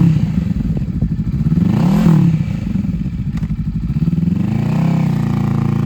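Honda Rebel 500's parallel-twin engine running and being revved in throttle blips. The revs rise and fall about two seconds in, then climb and settle more gently near the end.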